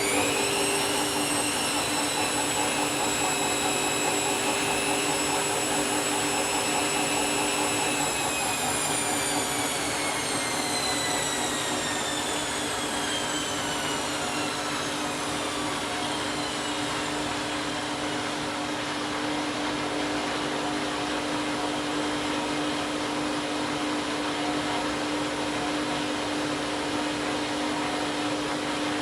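Candy washing machine spinning its empty drum: the motor's high whine holds steady for several seconds, then falls away as the drum winds down, over a steady low hum.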